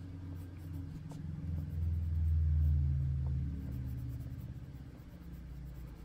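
Prismacolor coloured pencil burnishing on paper, a faint scratching, under a low rumble that swells over a couple of seconds and then fades away.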